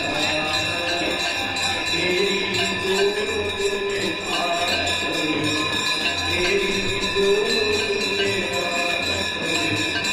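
Ganga Aarti devotional singing, a wavering sung melody, over bells ringing steadily and a low drum beat about once a second.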